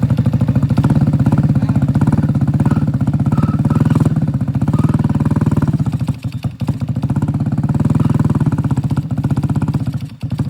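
Moped's swapped-in small engine running with a fast, even putter after starting; it sags and nearly dies about six seconds in and again near the end, which the riders call the same problem it had before.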